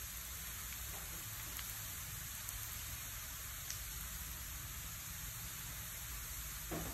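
Sliced lemongrass and chili sizzling in oil in a frying pan, a steady hiss, with a few faint ticks of a metal spatula stirring it. A louder scrape or knock from the spatula comes near the end.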